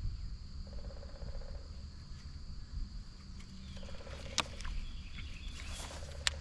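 A woodpecker drumming: three short bursts of rapid, evenly spaced taps, each about a second long. Under it runs a steady high insect trill, and two sharp clicks come in the second half.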